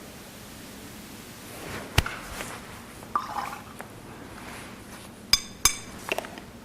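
Small hard objects being handled: a sharp knock about two seconds in, a few light taps, and two quick ringing clinks near the end.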